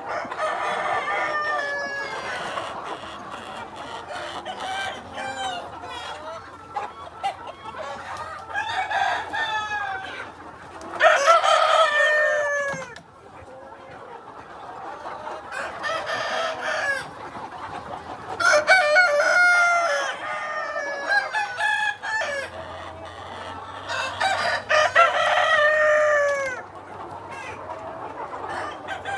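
Free-range chickens: roosters crow several times, each crow falling in pitch at its end, over the steady clucking of hens.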